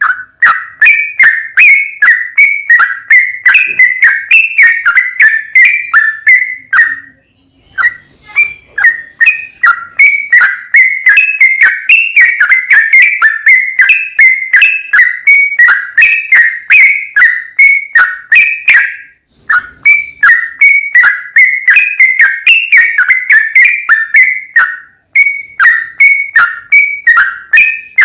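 Yellow-vented bulbul (trucukan) singing without pause: quick runs of short whistled chirps, a few each second, broken by one pause about a quarter of the way in.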